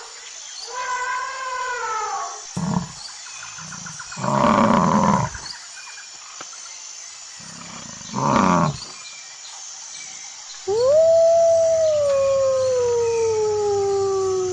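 Animal howls: a short call falling in pitch near the start, then three brief loud cries, and from about eleven seconds in a long howl that glides steadily down in pitch.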